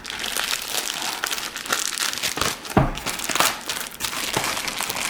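Crinkly packaging of a makeup subscription bag being handled, rustling and crackling irregularly, with a sharper knock about three seconds in.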